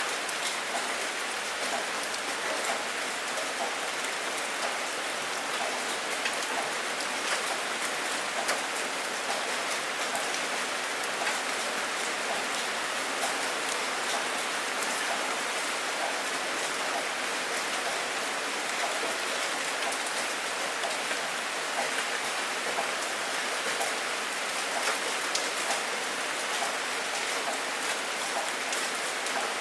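Steady rain falling on a surface, a constant hiss dotted with the ticks of individual drops.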